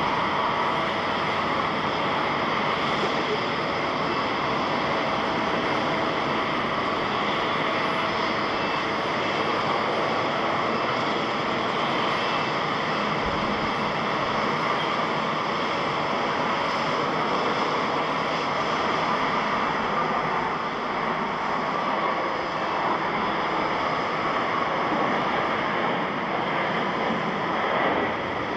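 Airliner jet engines running: a steady rushing noise with faint whining tones, holding level throughout.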